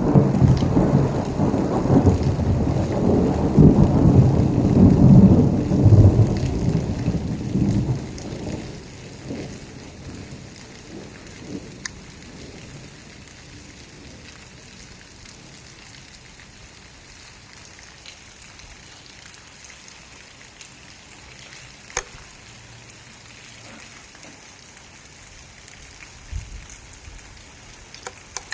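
Thunder rumbling low and loud, dying away over about eight seconds, then steady rain with a few sharp taps.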